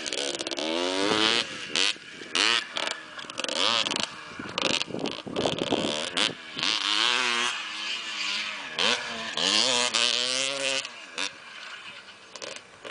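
Motocross dirt bike engine revving hard, its pitch climbing and dropping back again and again as the rider accelerates and shifts.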